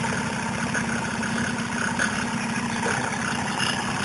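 Pocket bike's small single-cylinder engine idling steadily through a handmade exhaust, a fast even put-put with no revving.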